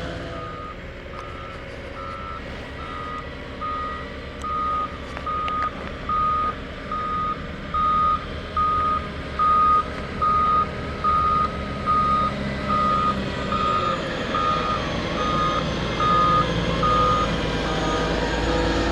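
Reversing alarm of a heavy work vehicle beeping steadily, one beep about every 0.8 s, over a diesel engine running; the beeping stops near the end.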